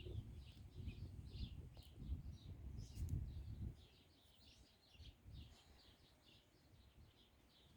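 Small birds chirping in quick, high, short notes, over and over, with a low rumble in the first half that fades out.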